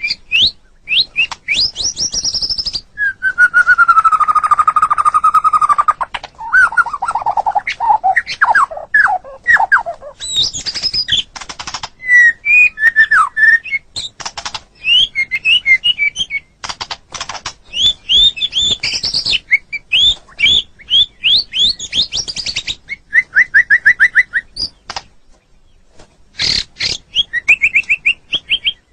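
White-rumped shama (murai batu) singing a long, varied song: quick phrases of clear rising and falling whistles, a long held note a few seconds in, down-slurred notes, and fast trills, with a short pause near the end.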